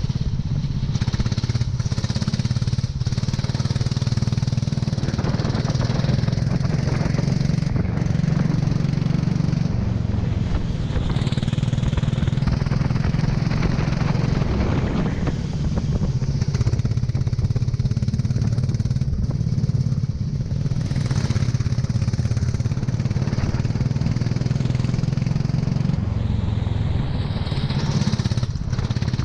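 Kart engine running hard on track, its pitch dropping and rising again several times as it brakes and accelerates through corners.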